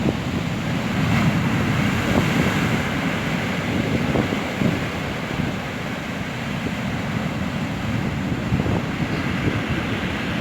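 Storm surf breaking on the shore, with strong wind buffeting the microphone in a steady, gusty rumble.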